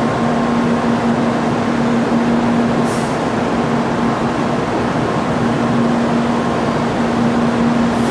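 Steady hum and whir of a Kyushu Shinkansen 800 series train standing at the platform, with a constant low tone under a hiss. A short high hiss comes about three seconds in.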